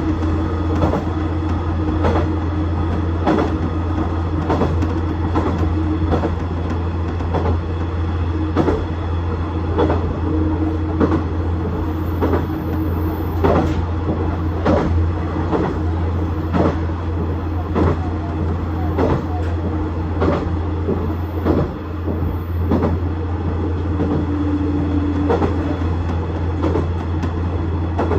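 KiHa 110 series diesel railcar running along the line: a steady low drone from its diesel engine, with frequent, irregular clacks and rattles of the wheels on the track.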